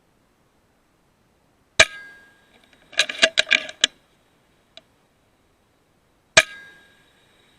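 Two shots from an FX Impact M3 .22 PCP air rifle, about a second and a half and six seconds in, each a sharp crack with a short metallic ring after it. Between them comes a quick run of about seven clicks and clacks, typical of the rifle's side lever being cycled to chamber the next slug.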